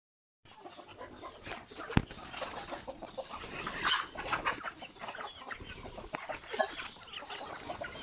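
A flock of backyard chickens clucking, starting about half a second in, with one sharp knock about two seconds in.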